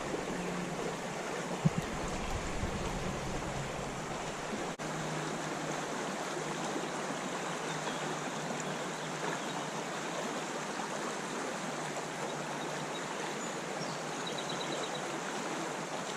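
Creek water running steadily, an even rushing sound with one brief knock about two seconds in.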